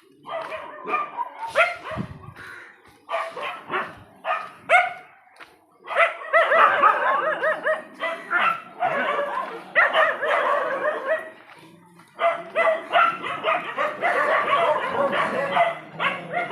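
Dogs barking and yelping, several calls overlapping. Scattered barks at first, then dense runs with short pauses from about six seconds in.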